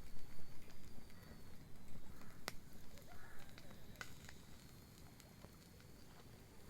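Wood bonfire crackling, with scattered sharp pops (the loudest about two and a half seconds in, another a second and a half later) over a low, steady rumble.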